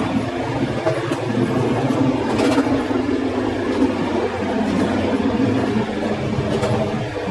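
TLK passenger train running along the track at speed: a steady rumble of wheels on rails, with a few faint clicks.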